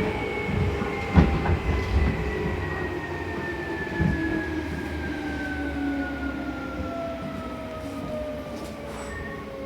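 Seibu New 2000 series electric train braking for a station stop, its traction motors whining in several tones that fall steadily in pitch as it slows. Under the whine is a low rumble, and a few wheel knocks come through, the loudest about a second in.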